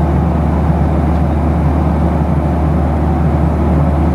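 Steady drone of engine and air noise inside a Boeing 737-700's cabin, with a constant low hum and no change in pitch.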